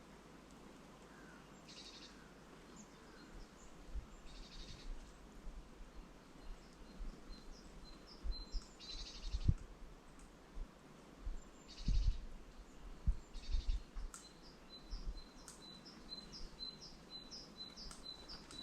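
Small songbirds calling: short high chirps every couple of seconds, then a quick run of repeated chirps in the last few seconds, with scattered low thumps.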